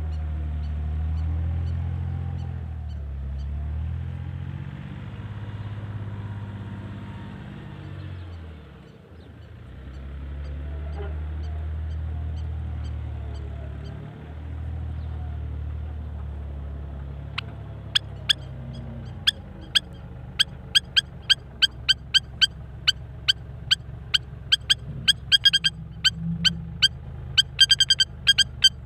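A bulldozer's engine running with a low hum that rises and falls, dipping twice. From a little past halfway, a bird calls over it in short sharp notes, several a second, growing more frequent.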